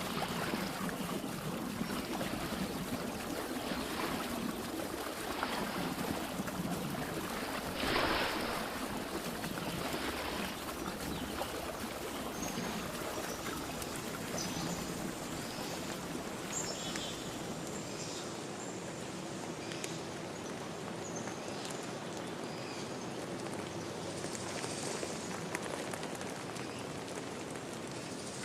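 River stream running steadily, with louder splashing surges in the first ten seconds, the strongest about eight seconds in. Short high bird chirps come in from about halfway.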